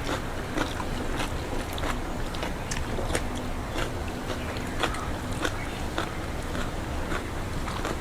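Rice and chicken curry being eaten by hand off a banana leaf: irregular small wet clicks and chewing noises, several a second, over a steady background hiss.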